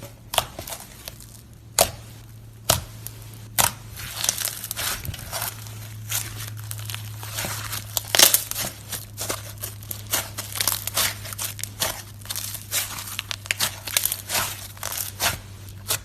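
Slime being squeezed and stretched by hand, making crisp crackling and popping clicks, a few at a time at first and thick and fast from about four seconds in. A low steady hum runs underneath.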